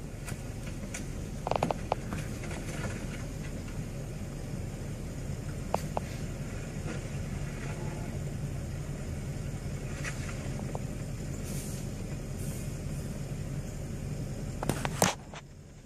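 Road vehicle engine running with a steady low rumble, broken by a few short knocks and a sharp clatter near the end, after which it drops quieter.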